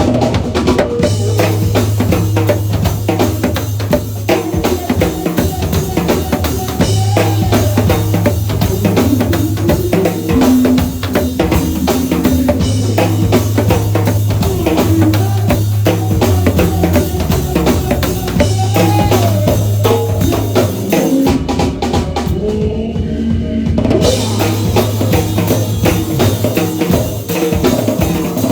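A live band playing a song, with a drum kit keeping a steady beat over a bass line. The cymbals and high end drop out for about two seconds near the end before the full kit comes back in.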